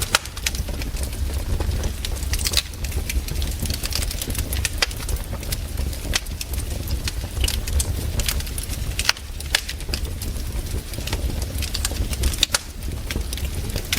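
Campfire crackling: burning wood gives irregular sharp pops and snaps over a steady low rumble.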